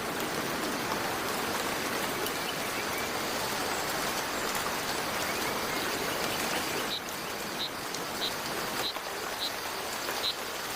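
Heavy tropical rain falling on rainforest foliage, a steady hiss. From about two-thirds of the way through, six short, high chirps come roughly every half second over it.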